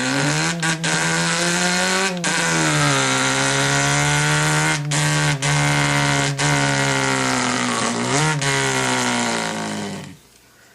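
A man's voice imitating an engine with his mouth: one buzzing held note of about ten seconds, broken by a few brief gaps. It climbs slightly, then drops sharply about two seconds in, and dips and rises again near the end.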